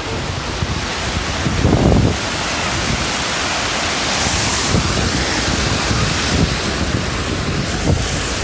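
Pacific Ocean surf washing ashore in a steady rush, with wind buffeting the microphone and a louder low rush about two seconds in.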